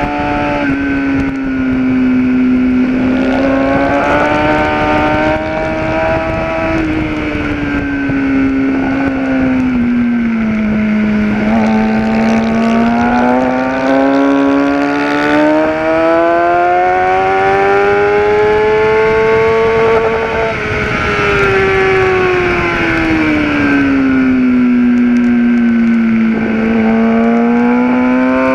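Kawasaki ZX-10R sportbike's inline-four engine heard on board at track speed. Its pitch climbs slowly under acceleration, then falls off again as the bike slows, twice over, with steady wind rush underneath.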